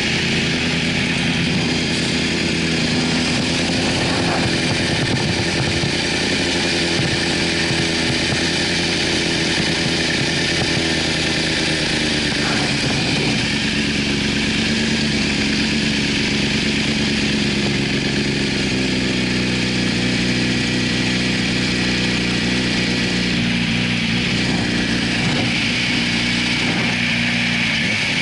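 2004 Yamaha YZF-R6's inline-four engine idling steadily at a stop, its pitch shifting slightly a couple of times.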